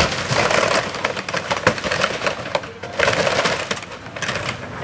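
A wooden gazebo being torn down, its timbers splintering and cracking with many sharp snaps as the structure is crushed. The crackling eases briefly just before the three-second mark, then picks up again and tapers off.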